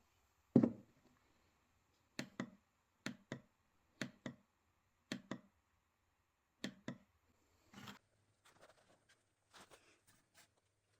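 Tap light being tapped: one knock about half a second in, then about six double clicks roughly a second apart, followed by faint handling rustle near the end.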